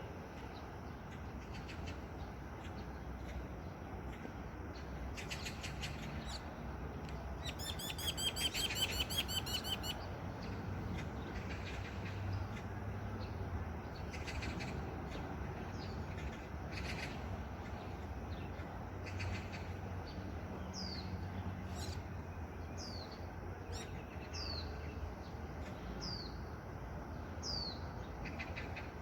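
Pipit calling: a loud, fast trill about eight seconds in, then a run of short, high, down-slurred notes about once a second toward the end.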